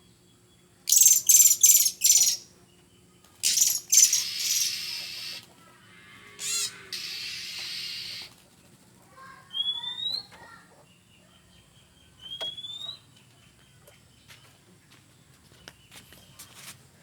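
Oriental magpie-robin calling: a run of loud, harsh rasping bursts in the first half, then two short rising whistled notes.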